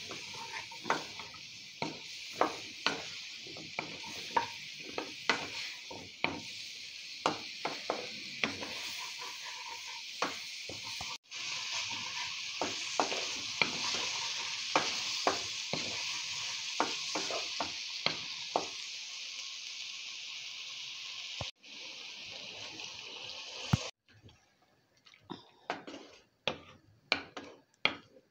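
Gourd pieces sizzling as they fry in oil and spices in a pan, with a spatula clicking and scraping against the pan as they are stirred. About four seconds before the end the sizzle stops, and only soft, scattered clicks of stirring in the now-watery curry are left.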